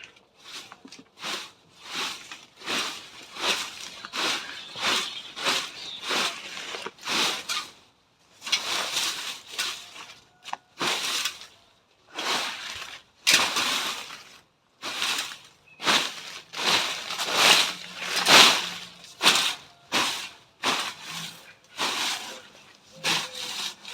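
Repeated rustling, scraping strokes of hand work through cut plant material, about one or two a second with a few short pauses.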